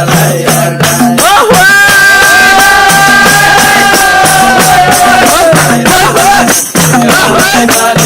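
Nepali folk song about Ram's exile and Bharat's crowning: a voice sings one line, then holds one long note from about a second and a half in until past five seconds. Underneath runs a steady beat of quick, high percussion strikes and a bass line.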